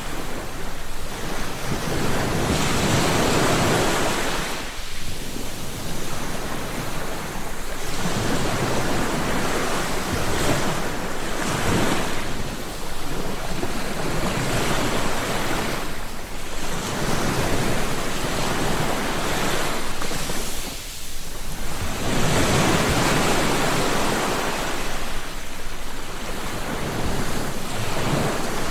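Sea waves breaking and washing on the shore in repeated surges a few seconds apart, each swelling and easing, with some wind on the microphone.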